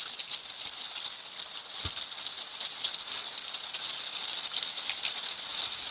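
Steady rain from a hurricane's outer bands, a constant hiss with many sharp drops ticking and pattering on hard surfaces.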